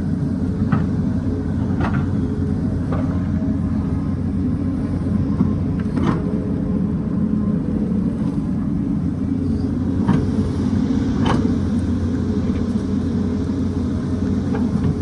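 Hyundai excavator's diesel engine running steadily under load, with a few sharp knocks scattered through, about six in all, typical of the bucket striking rock.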